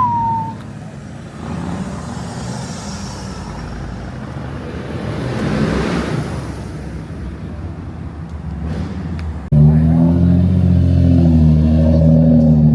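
Car sounds: one car passes by about six seconds in. Then, after an abrupt cut about three seconds before the end, a car engine runs loud and steady close by.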